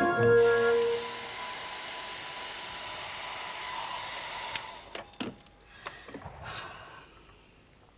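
Handheld hair dryer running steadily, then switched off suddenly about four and a half seconds in, followed by a few light knocks as it is handled.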